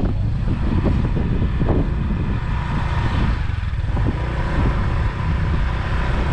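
Motorbike engine running while riding, a steady low rumble.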